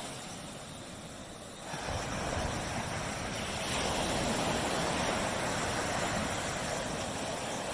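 Surf on a tropical beach: a softer lull, then about a second and a half in a wave breaks and its wash hisses steadily up the shore.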